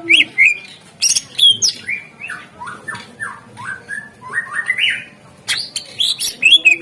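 Cucak ijo (green leafbird) singing a fast, varied song of whistled rising and falling notes mixed with sharp clicks, with a run of short rising notes in the middle.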